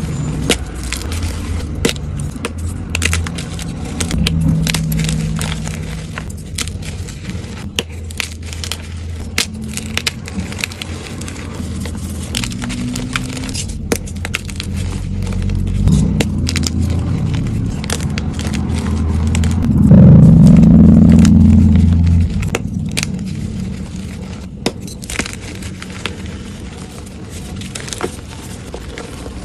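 Blocks of gym chalk being crushed and crumbled close to the microphone: many sharp crackles and crunches over a low rumble, which swells to its loudest about twenty seconds in.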